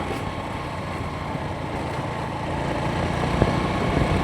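A motor vehicle running steadily: a low engine hum with road noise, growing a little louder near the end.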